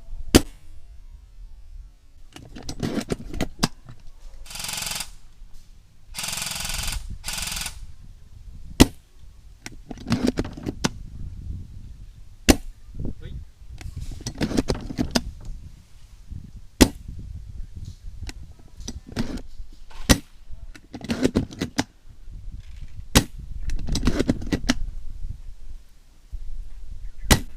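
Airsoft guns firing single shots, about seven sharp cracks a few seconds apart, with two short bursts of hiss near the start and scuffling movement between shots.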